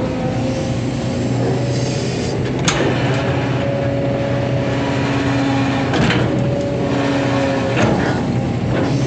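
Excavator's diesel engine running steadily, with three sharp clanks from the machine about three, six and eight seconds in.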